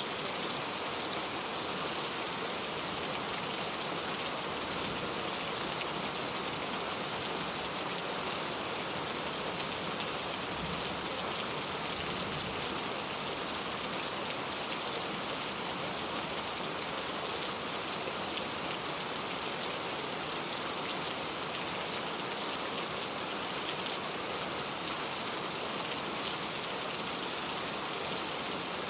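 Steady rain falling, an even hiss with many small drops striking a surface.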